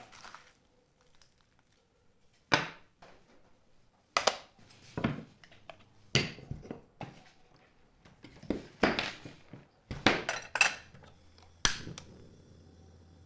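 A striker scraped hard down a ferrocerium fire-starter rod to throw sparks: about ten sharp, rasping strikes at uneven intervals, some in quick pairs.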